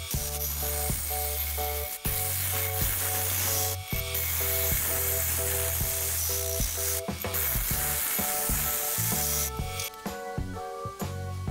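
A lathe tool cutting a spinning ebony table-leg blank: a steady hissing scrape of shavings coming off. It breaks off briefly about two, four and seven seconds in and thins near the end. Background music plays over it, a repeating melody over a low bass.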